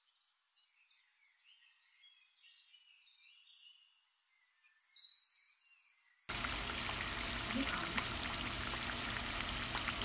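Faint birdsong with one louder call, then about six seconds in a sudden cut to beef keema pies frying in hot oil in a pan: a steady sizzle with sharp pops.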